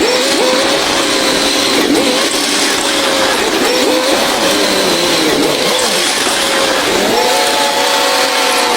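Heavy earthmoving machinery engine running under load, its pitch wavering up and down, then revving higher about seven seconds in.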